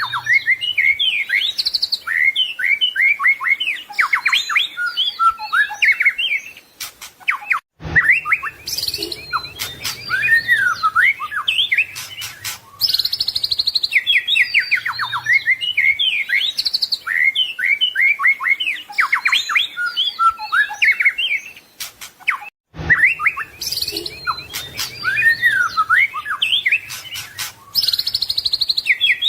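White-rumped shama singing a fast, varied run of whistles, trills and chattering phrases with mimicked notes, broken by two brief pauses about a third and three-quarters of the way through. The phrase sequence repeats, as in a looped recording.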